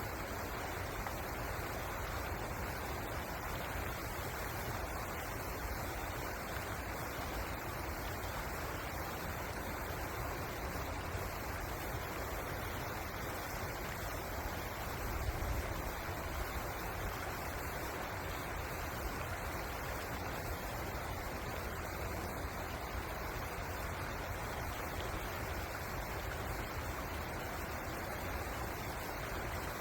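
Steady rush of flowing river water, an even hiss with a low rumble beneath it, swelling slightly about halfway through.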